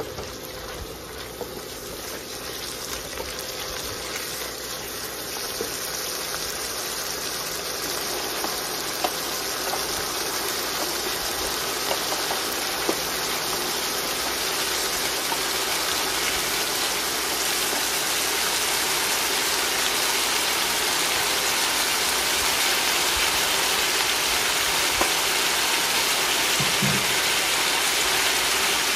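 Food sizzling in a hot nonstick wok while being stir-fried with a silicone spatula, with a few light taps and scrapes of the spatula. The sizzle grows steadily louder.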